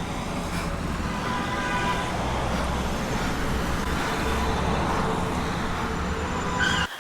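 A car's engine and road noise, a steady rumble, as a car bears down on someone. It cuts off abruptly near the end, with a brief higher-pitched sound just before.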